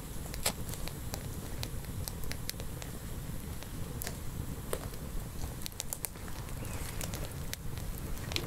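Wood campfire crackling: scattered sharp pops and snaps, irregularly spaced, over a steady low rumble.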